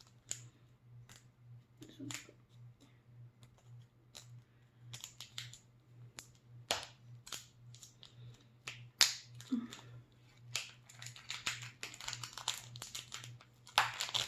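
Small plastic blind-bag packaging being picked at and worked open by hand: scattered clicks and crinkles, growing busier near the end, over a faint steady low hum.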